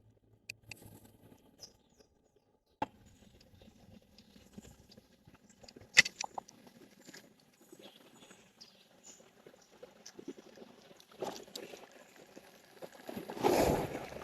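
Scattered small clicks and rustling from handling fishing tackle, with a sharper click about six seconds in and a louder rustle near the end.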